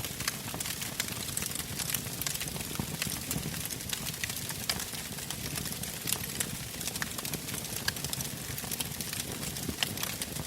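Wood fire burning in a fireplace: a steady hiss with frequent sharp crackles and pops.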